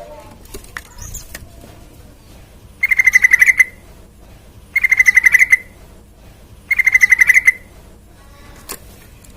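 Yellow-vented bulbul (trucukan) singing three short, loud bursts of fast bubbling notes about two seconds apart, with faint chirps and clicks between them.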